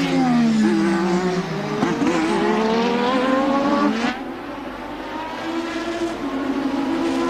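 Formula One car engine heard from the race broadcast. The revs fall as the car slows, then climb steadily as it accelerates away. About four seconds in, the sound drops sharply to a quieter, steadier engine note.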